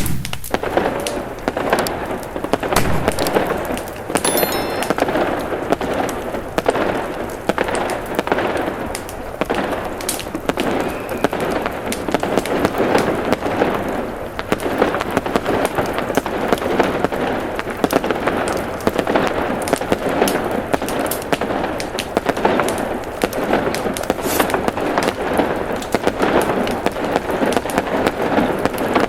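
Firecrackers going off in a dense, continuous crackle of rapid pops, with sharper cracks scattered throughout.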